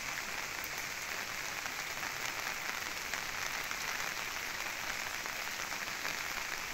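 Steady rain falling: an even hiss with scattered fine drop ticks.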